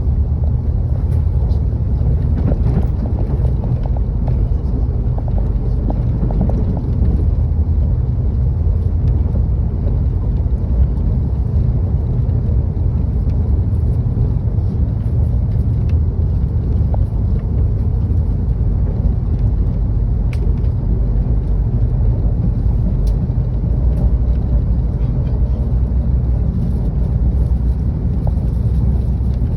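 Seoul metro train running, a loud steady low rumble with a few faint clicks.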